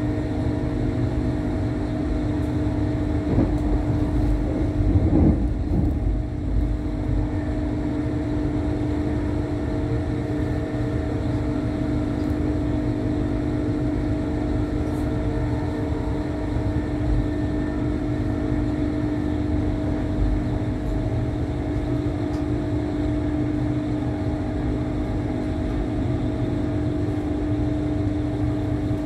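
A passenger train running, heard from inside the carriage: a steady low rumble with a constant hum. There are a couple of louder bumps about three to six seconds in.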